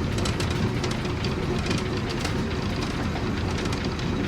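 A moving vehicle heard from inside: a steady low rumble, with irregular rattling clicks over it.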